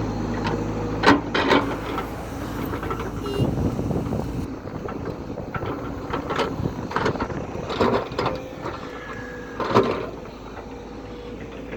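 A heavy construction machine's diesel engine runs steadily, with a string of sharp metallic clanks and knocks: two about a second in, and several more in the second half, the loudest near the end. The engine hum drops lower partway through.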